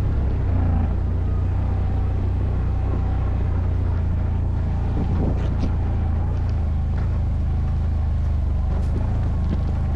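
ATV engine running at a fairly steady pitch.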